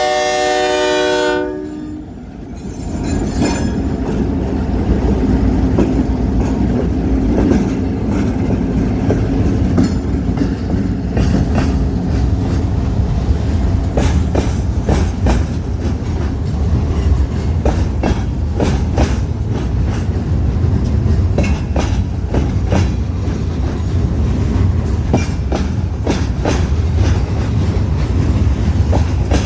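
Diesel train horn sounding and cutting off about a second and a half in, then the steady rumble of a freight train's cars rolling along, with the clickety-clack of wheels clicking over rail joints.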